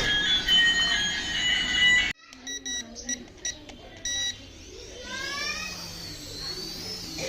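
Electronic toy sound chip: a tinny electronic tune that cuts off abruptly about two seconds in, then several short high beeps, then a rising whine over a steady low hum.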